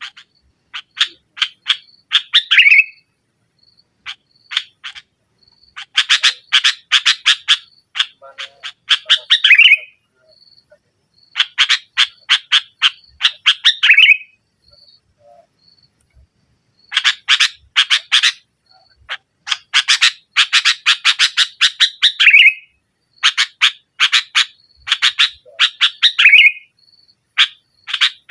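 Sooty-headed bulbul (kutilang) chattering loudly in repeated bursts of a few seconds, each a rapid run of harsh notes ending in a short slurred whistle, with brief pauses between. This is the aggressive 'nggaruda' chatter used as a lure call to provoke rival bulbuls.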